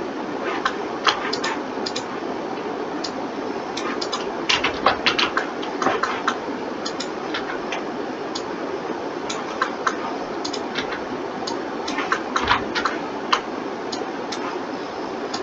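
Irregular clicks of a computer mouse and keyboard as someone works at a computer, with two quicker flurries of clicks, over a steady background hum.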